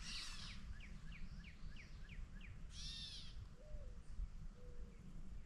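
Faint squeaky calls of an unidentified wild animal: a short squeak, a quick run of about seven falling chirps, then a longer arching squeal about three seconds in.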